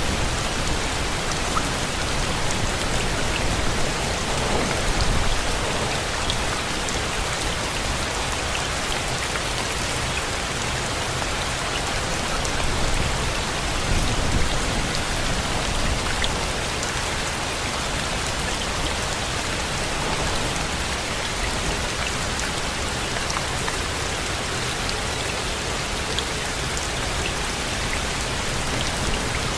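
Steady, heavy rain falling, an even hiss of drops, with two brief low swells about five and fourteen seconds in.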